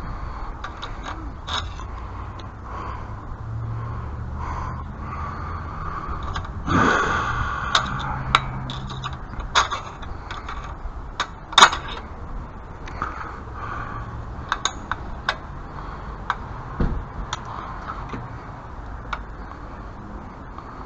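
Irregular scraping and clicking of a fastener being worked by hand with a tool; it turns and stiffens but will not tighten down. A longer, louder scrape comes about seven seconds in and a sharp click a few seconds later.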